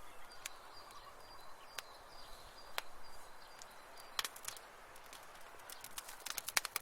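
Wood fire crackling in a fireplace: sharp, scattered pops over a soft hiss of flames, with a quick run of pops near the end.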